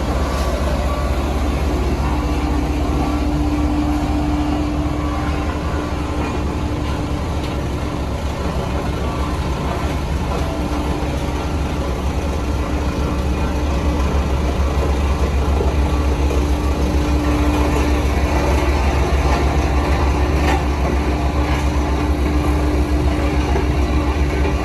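Heavy diesel construction machinery running steadily, a continuous low engine drone with a steady hum on top. It grows a little louder about halfway through.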